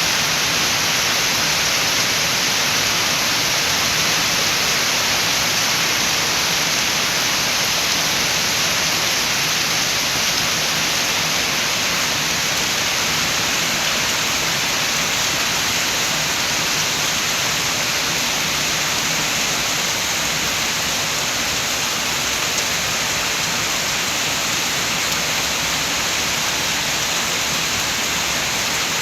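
Steady heavy rain with wind, a dense even hiss without separate drops standing out.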